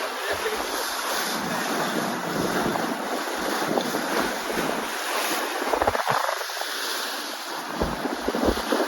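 Atlantic Ocean surf, a steady wash of waves, with wind buffeting the microphone in brief low gusts about six seconds in and again near the end.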